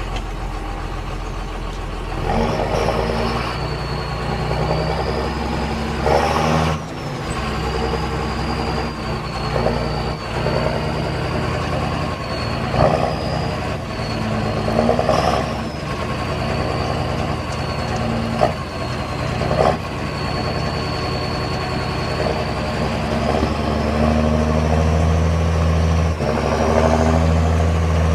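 John Deere 7430 tractor's diesel engine running and revving, with a high steady whine above the engine note. It picks up about two seconds in, surges briefly several times, and runs heavier and louder over the last few seconds.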